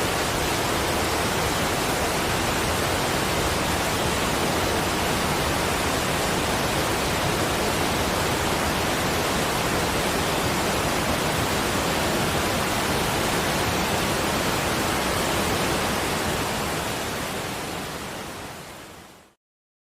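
Steady rushing water noise, an even wash with no distinct drops, tones or chimes; it fades out over the last few seconds and stops just before the end.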